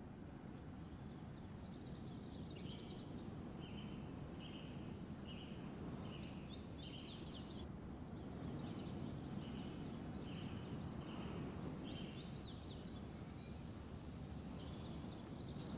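Faint outdoor ambience with birds chirping: a regular series of short high notes about two-thirds of a second apart over a low background hush, breaking off briefly midway and then starting again.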